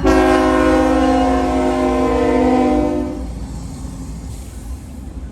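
Freight locomotive air horn sounding one long chord of several notes for about three seconds, over the low rumble of the passing train, which carries on after the horn stops.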